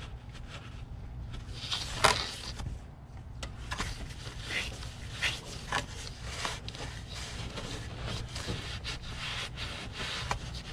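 Cloth shop rag being handled and rubbed, a run of irregular scuffing and rustling strokes, with a sharp click about two seconds in.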